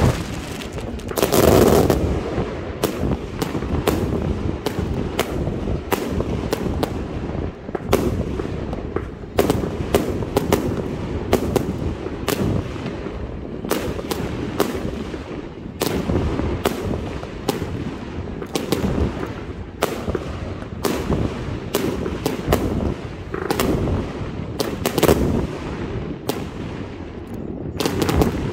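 Aerial fireworks display: a steady run of shell bursts, about one or two bangs a second, over a continuous crackle and rumble, with the loudest bursts about a second and a half in and near the end.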